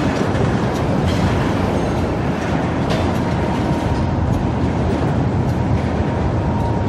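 Railroad tank cars rolling slowly past: a steady rumble of steel wheels on rail with a few faint clicks.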